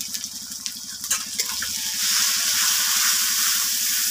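Onion and ginger-garlic masala frying in mustard oil in a metal wok, with red chilli powder just added. A few clicks of the metal spatula come first, then the sizzle grows louder about two seconds in as the masala is stirred.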